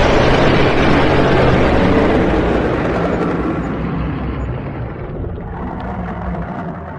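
Dragon sound effect: a loud, rough, rushing roar with a deep rumble underneath that fades slowly over about seven seconds.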